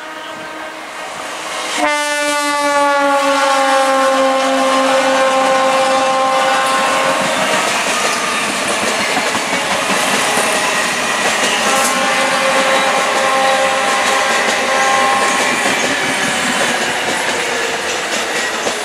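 Indian Railways EMU local trains running past at speed, wheels rumbling and clattering on the rails. A multi-tone horn sounds briefly at the start, then a long horn blast about two seconds in drops in pitch as the train goes by, and another horn blast sounds from about 12 to 15 seconds in.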